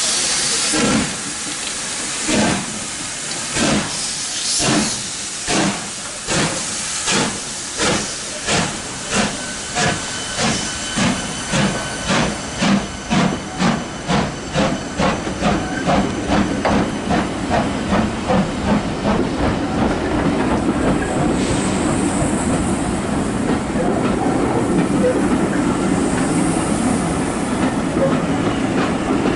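LMS Black Five steam locomotive pulling away from a stand, its exhaust beats quickening from about one a second to several a second over a steady hiss of steam. Near the end the beats blur into a continuous chuffing with train running noise.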